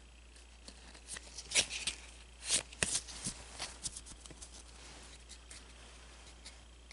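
Pokémon trading cards being handled as they come out of a booster pack: scattered soft rustles and flicks of card and wrapper, loudest about one and a half and two and a half seconds in.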